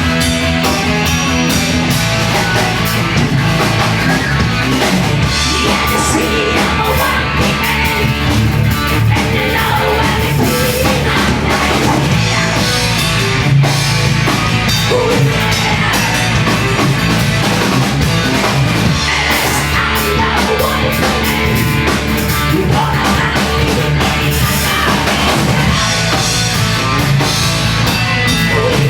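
A hardcore band playing live, loud: distorted electric guitars, bass guitar and a drum kit.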